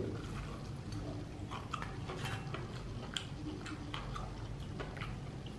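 A person biting into and chewing a piece of crispy, double-coated fried chicken, the breaded skin crunching in small crackles a few times a second.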